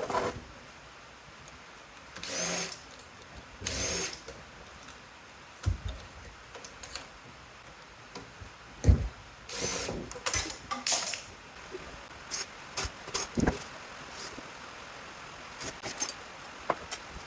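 A power drill run in three short bursts, its motor whirring up each time, as screws are backed out to take the casters off a power supply unit's frame. Several knocks and clatters of metal parts between the bursts.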